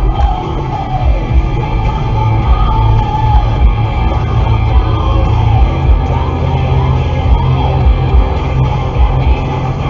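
Rock music with electric guitar and a heavy beat playing steadily on the radio.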